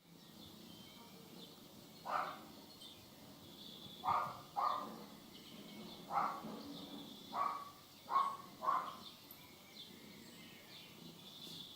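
Seven short animal calls, two of them coming in quick pairs, over birds chirping in the background.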